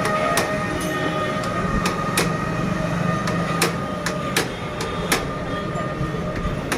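A steady mechanical hum with constant tones, broken by sharp clicks or taps at irregular intervals.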